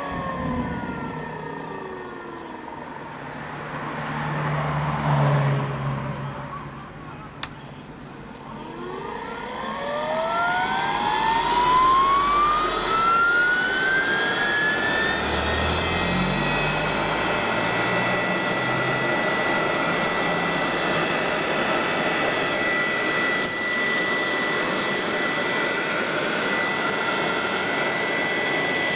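Ring blower spinning down with a falling whine, then a sharp click about seven seconds in. It starts up again, its whine rising steadily in pitch until it levels off at a steady high tone a little past halfway.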